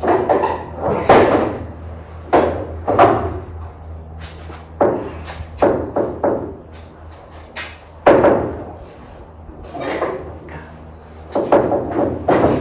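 A series of irregular knocks and clatter, about one a second, over a steady low hum.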